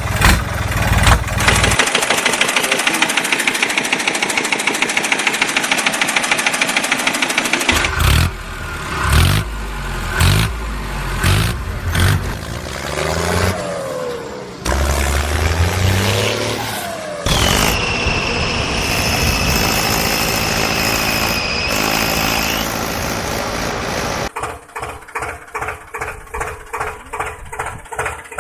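Engine running with a fast, even chugging pulse that changes several times as it goes. A steady high-pitched whine sits over it for about five seconds in the middle.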